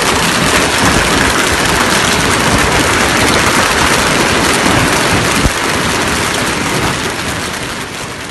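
Heavy storm downpour, a dense steady hiss of rain pelting surfaces, with a single knock about five and a half seconds in, fading near the end.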